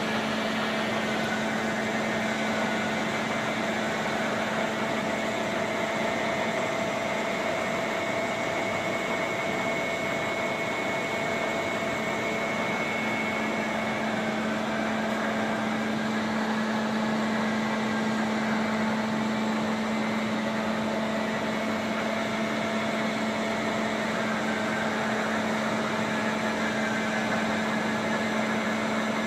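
Caser gantry milling machine running: a steady hum with a constant low tone and a fainter higher whine over an even hiss.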